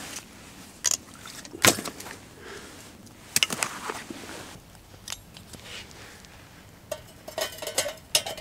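Metal camp cookware and stove parts clinking and knocking as they are handled: a few separate knocks, then a quick run of ringing metallic clinks near the end.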